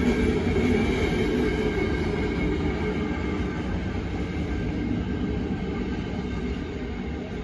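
Freight train of tank cars and covered hoppers rolling past: a steady rumble of wheels on rail, growing gradually quieter over the second half.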